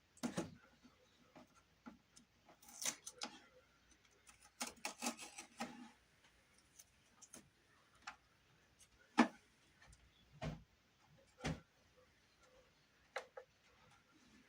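Scattered light knocks, taps and rustling from small wooden trim pieces being handled and tried in place, with a sharp knock about nine seconds in and two dull thumps soon after.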